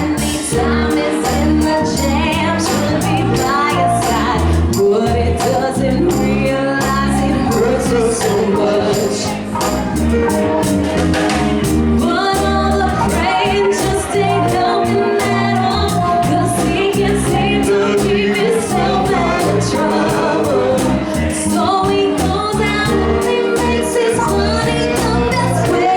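Live band playing a 90s R&B groove: keyboards, trombone, electric guitar, bass guitar and a drum kit keeping a steady beat.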